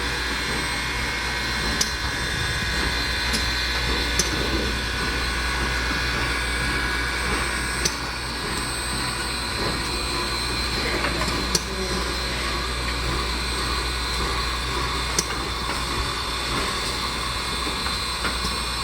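Southern 630, a 2-8-0 steam locomotive, hissing and humming steadily as it moves slowly, with a few sharp clicks scattered through.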